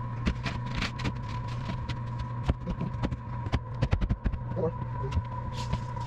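Steady low hum with a faint high steady tone, under scattered clicks and knocks from hands-on work.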